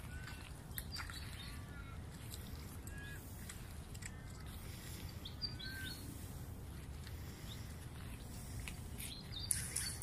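Small birds chirping and calling in short, scattered whistled notes over a steady low rumble, with a brief louder rustle near the end.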